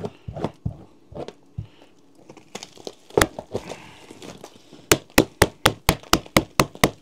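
A tent's fabric door closure being handled. From about five seconds in comes a steady run of sharp clicks, about four a second, as the frozen zipper and velcro are worked to get the flap shut.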